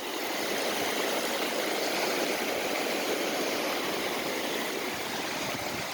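Pacific Ocean surf washing in over the shallows at the shoreline: a steady rushing hiss that swells slightly about two seconds in.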